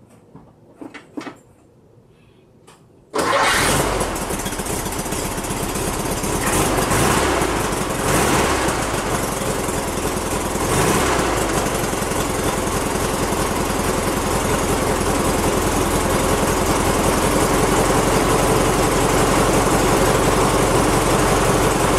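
Air-cooled VW flat-four, a 1641cc dual-port engine with dual carburettors, starts about three seconds in and keeps running, revved up briefly a few times. It has a little clacking noise that persists even though the valves have just been adjusted, which the owner cannot yet place.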